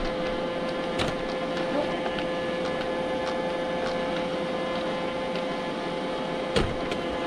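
Robot vacuum cleaner running with a steady motor whine and brush noise, bumping into something with a sharp knock about a second in and again near the end.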